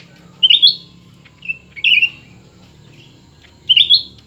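Cucak ranting songbirds chirping in short, loud, repeated phrases, about four in a few seconds, as two birds call against each other.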